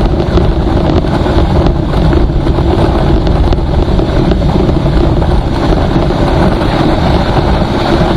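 Vehicle moving at speed, with a steady engine drone and road noise under heavy wind buffeting on the microphone.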